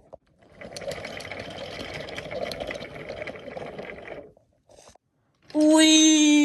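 Small battery-powered toy train motor whirring with a rattle of gears for about four seconds, then stopping. Near the end a much louder held tone starts, falling slightly in pitch.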